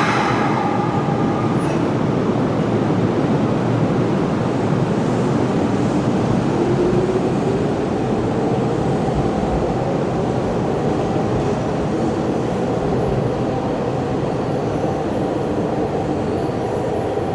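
Hanshin Railway electric train running: steady wheel and motor noise, with a faint whine that rises in pitch about a third of the way in.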